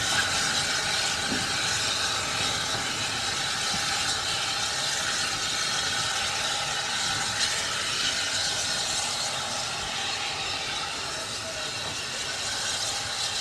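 Steam locomotive letting off steam: a steady hiss with no beat and no change in level.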